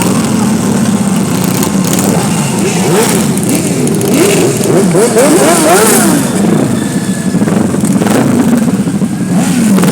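Group of motorcycles riding past in a parade, many engines revving at once, their pitches rising and falling as they go by, busiest around the middle.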